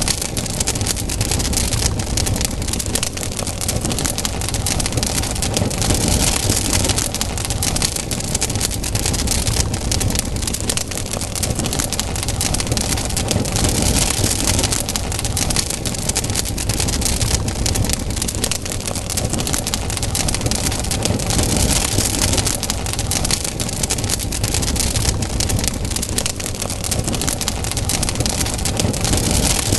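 Wood campfire crackling: a dense, continuous stream of small sharp pops and snaps over a steady hiss of burning, with a low rumble beneath.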